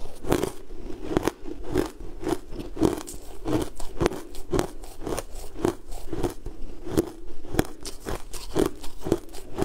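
A person chewing a crunchy mouthful, with sharp crunches over a steady chewing rhythm of about two chews a second.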